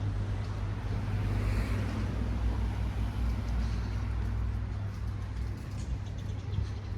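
Street traffic: a steady low motor-vehicle rumble with road noise, swelling briefly about one and a half seconds in as a vehicle goes by.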